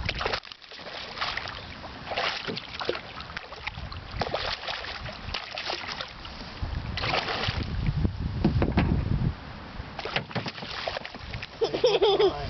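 Water splashing and sloshing around a canoe, with scattered knocks and clatter in the boat.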